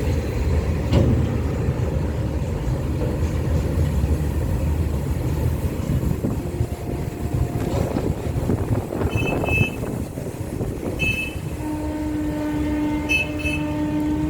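Train passing with a low rumble from the wheels on the track. Near the end a locomotive horn sounds one long steady note, with a few short high tones before it.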